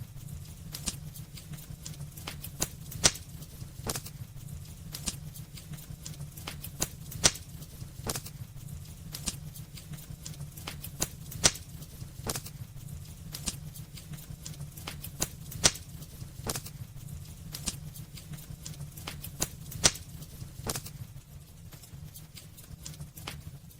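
Burning wood crackling in a fireplace: irregular sharp pops and snaps, several a second, some much louder than the rest, over a steady low rumble.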